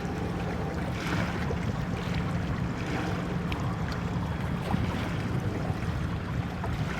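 Steady wind and water noise by the sea, with wind rumbling on the microphone.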